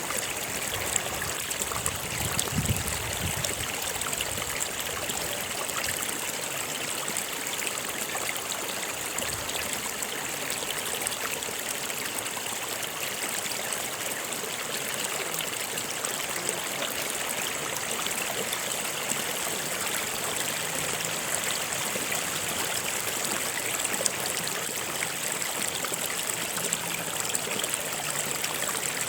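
Stream water flowing steadily, an even rushing noise with no pauses, and a brief low rumble about two seconds in.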